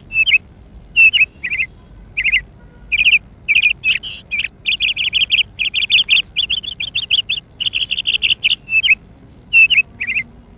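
A small bird chirping in quick runs of repeated high notes, broken by short pauses.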